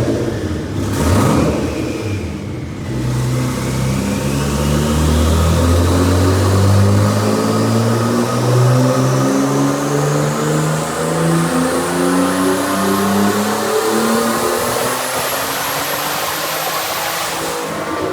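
Twin-turbo BMW E36 engine on a dyno pull: after a couple of short blips, it revs steadily up through one long climb lasting about fifteen seconds, with a high turbo whistle rising with it, then lets off near the end.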